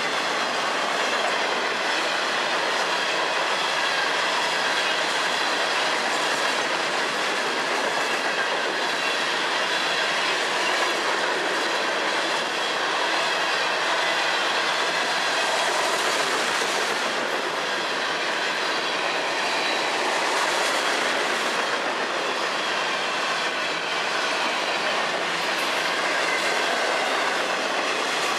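Florida East Coast Railway freight cars rolling past close by, a steady noise of steel wheels running on the rails.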